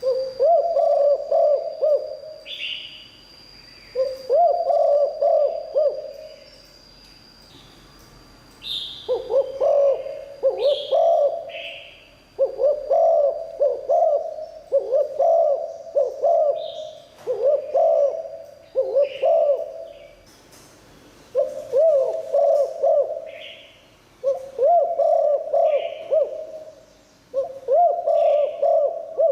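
Spotted dove cooing: its multi-note coo phrase repeated about every two seconds, a dozen times over. Short higher chirps from other small birds come between the phrases.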